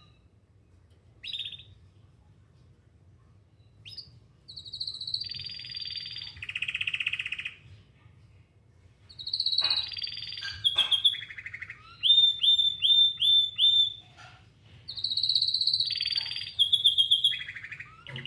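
Domestic canary singing in separate phrases after a few quiet seconds: clear held whistles, buzzing rolls and a quick run of repeated notes. A faint steady low hum runs underneath.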